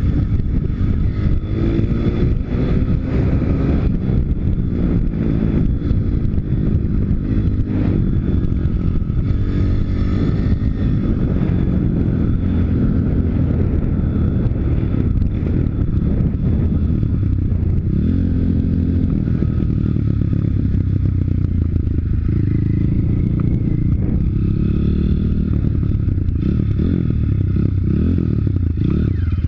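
YX 160 pit bike's single-cylinder four-stroke engine running under way, its pitch rising and falling several times as it revs up and eases off through the gears.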